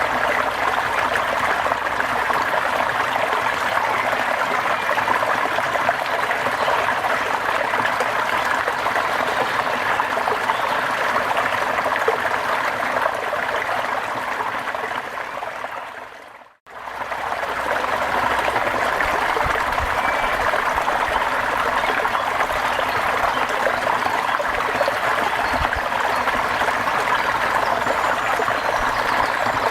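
Steady rain, an even hiss of falling water; it fades out to silence about sixteen seconds in and fades straight back in.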